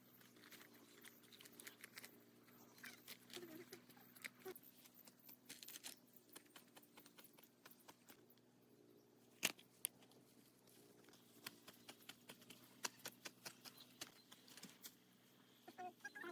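Near silence with faint scattered clicks and taps, and one sharper click about halfway through.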